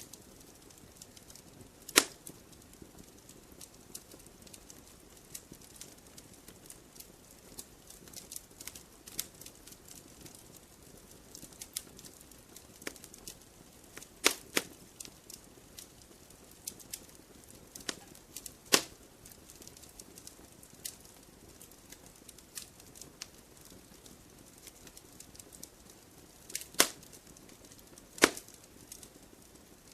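Wood fire crackling in a fireplace: a faint hiss with scattered small crackles and a handful of sharp, loud pops, one about two seconds in, a pair around the middle and two near the end.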